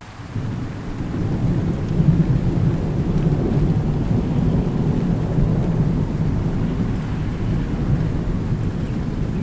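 Thunder rumbling over steady rain. The rumble swells over the first two seconds and rolls on without a break.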